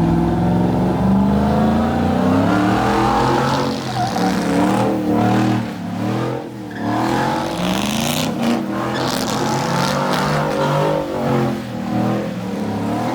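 A car engine revving hard, rising and falling again and again, with tires squealing as the car spins and slides in a burnout.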